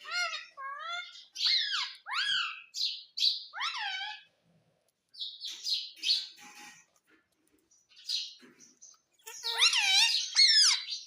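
Pet parrot calling: a run of short squawks and chirps that slide up and down in pitch, then a few softer, scratchier chirps, then a louder burst of calls near the end.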